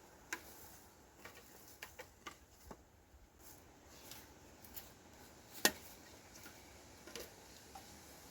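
Scattered light clicks and taps at an uneven pace, with one sharper knock a little past the middle.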